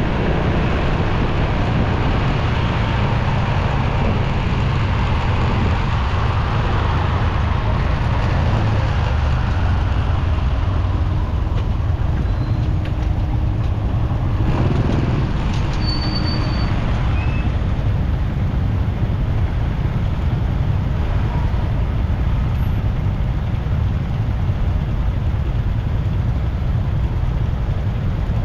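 Motorcycle ride in city traffic: a steady low rumble of engine, wind and road noise that keeps an even level. A few brief faint high-pitched chirps come a little past halfway.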